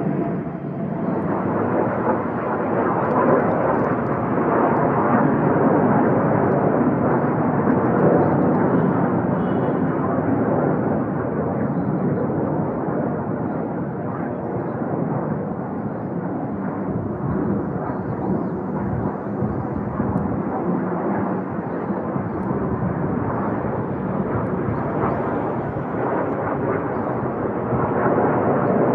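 Jet engines of Blue Impulse Kawasaki T-4 aircraft rumbling overhead, a steady, loud roar that swells a few seconds in and then holds.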